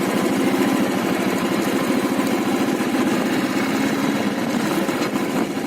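Motorcycle engine running steadily, a fast even pulse.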